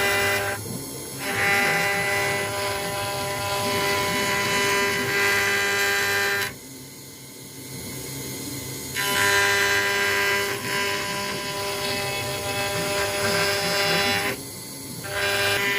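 CNC router spindle running with a steady whine as a 1 mm ball end mill cuts into acrylic sheet. The cutting noise drops away for about two seconds just past the middle, and briefly about a second in and near the end, then comes back.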